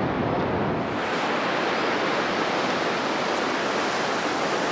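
Sea waves breaking on the shore, a steady rushing wash of surf.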